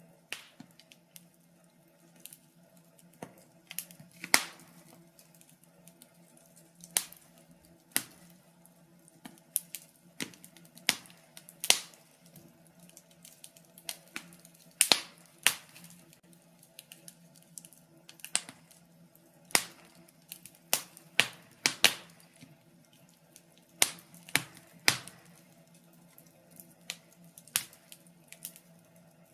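Wood fire crackling in a fireplace, burning birch logs: irregular sharp pops and snaps, a few much louder than the rest.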